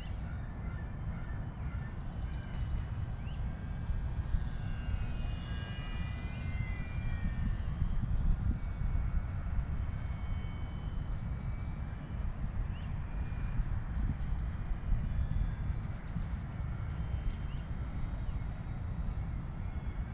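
High whine of a Volantex Sabre 920 RC plane's electric motor and propeller in flight, its pitch sliding up and down as the plane throttles and passes, about five seconds in most clearly. A constant low rumble of wind on the microphone runs beneath it.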